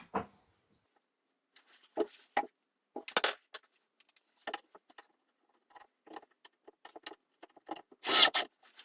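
Irregular light clicks, knocks and rattles of small hardware and wood being handled on a workbench, with a louder scraping rustle about three seconds in and a longer one near the end.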